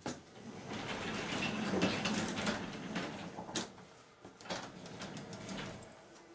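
Rough scraping and rustling of car parts being handled and pulled, lasting about six seconds, with several sharp clicks or knocks along the way.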